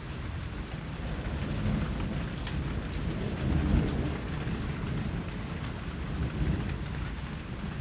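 Steady rain falling, with scattered drop ticks over a constant hiss. A low rumble of distant thunder swells up in the middle.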